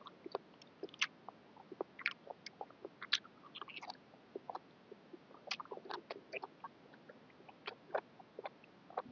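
Close-up eating sounds of a person chewing a mouthful of boat noodles: irregular wet mouth clicks and smacks, several a second.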